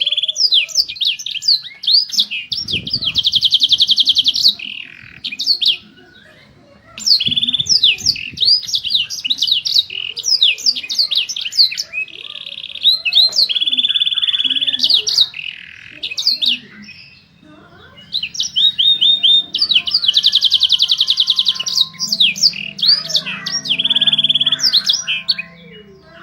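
Domestic canary singing: long bouts of quick chirps and rapid rolling trills, pausing briefly twice.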